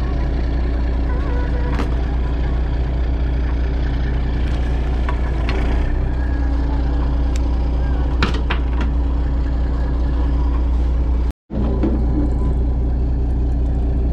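A fishing boat's engine runs steadily as a low, even drone, with a few faint clicks over it. The sound cuts out completely for a moment about eleven seconds in.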